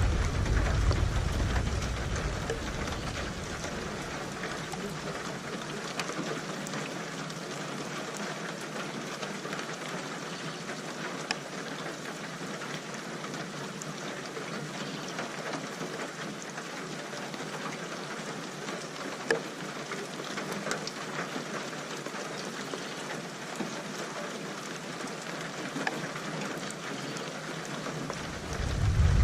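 Steady rain hissing, with scattered drop clicks. A low thunder rumble dies away over the first few seconds, and another rumble builds near the end.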